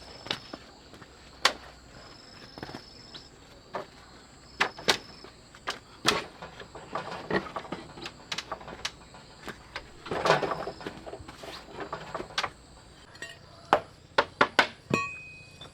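Irregular sharp knocks and clicks of objects being handled, busiest about ten seconds in, over faint steady insect buzzing.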